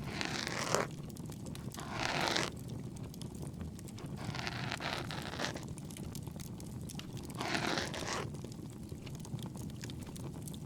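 An ear pick scraping inside the ear canal, close to the microphone, in four separate scratchy strokes about two to three seconds apart. A steady low crackle of a bonfire runs underneath.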